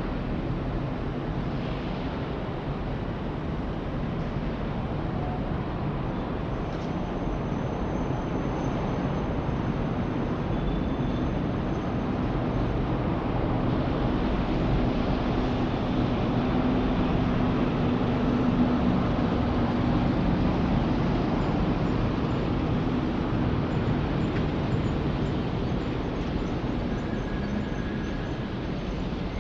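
Steady low rumble of city traffic, swelling to its loudest about halfway through as a heavy vehicle passes with a faint hum, then easing off.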